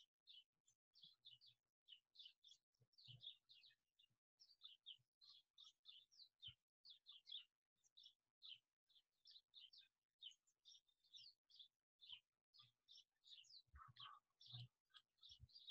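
Faint birdsong: quick, short, high chirps, several a second, with a few faint low thuds near the end.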